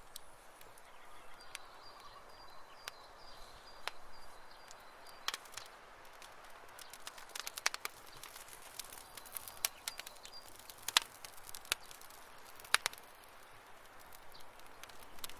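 Wood campfire crackling: irregular sharp pops and snaps over a soft hiss. A faint, thin, steady high note sounds from about a second and a half in to about five seconds, and again briefly around ten seconds.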